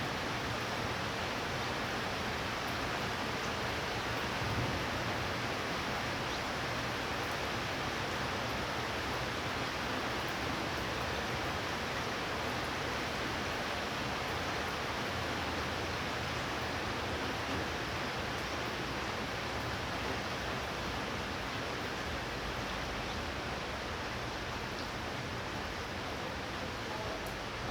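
Steady rain from a thunderstorm, an even, unbroken hiss with no thunder.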